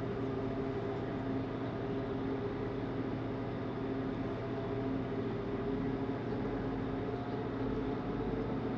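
Passenger ferry under way: the engines hold a steady drone with a few level hum tones, over a constant rushing noise.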